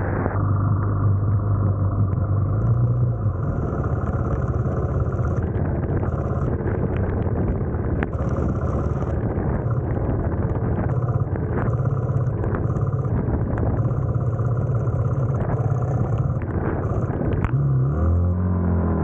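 Sport quad (ATV) engine running hard, its pitch stepping up and down with the throttle, then a quick rise and fall in revs near the end.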